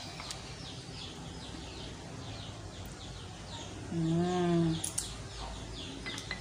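Small birds chirping in the background: short falling chirps repeating about three times a second. About four seconds in, a person makes a brief hum-like voice sound.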